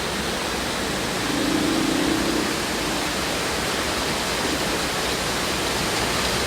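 Heavy rain pouring down in a dense, steady hiss. A faint low hum rises briefly between about one and two and a half seconds in.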